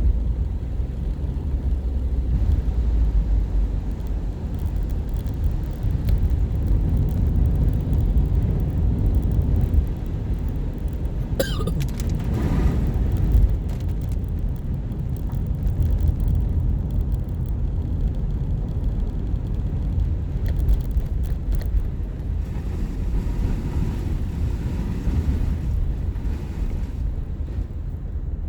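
Steady low road and engine rumble of a car being driven, heard from inside the cabin, with a brief whoosh about twelve seconds in.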